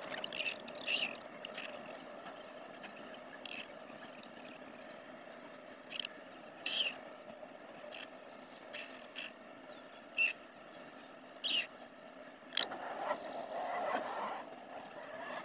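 Short, high bird chirps scattered through a steady low hum, with a louder, longer stretch of lower sound about thirteen seconds in.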